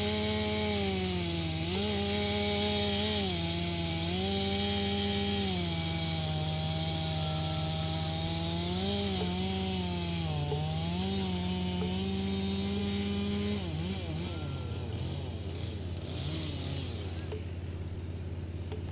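Wood chipper running, its engine pitch dipping and recovering again and again as wood is fed in and chipped, over a dense hiss of chipping. About two-thirds of the way in the chipping stops and the engine's pitch wavers and slides down, with one more short burst of chipping after that.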